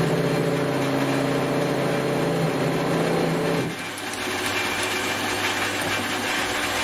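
Small metal lathe running while the end of a metal spacer is chamfered. A steady motor hum with a pitched whine drops away about four seconds in, leaving a lower steady hum and hiss.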